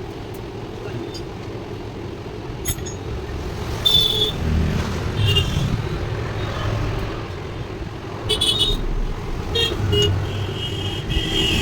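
Road traffic running steadily, with short vehicle horn toots about four seconds in and around eight and ten seconds, and a longer honk near the end.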